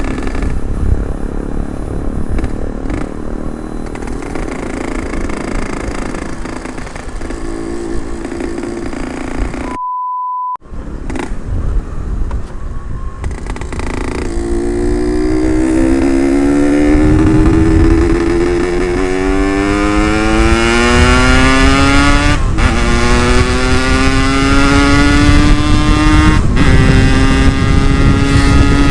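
Yamaha RX-King 135 two-stroke single-cylinder engine, cylinder ported, pulling the bike along at part throttle. About halfway through it starts accelerating hard, its pitch rising steadily, dropping at two upshifts near the end and climbing again after each.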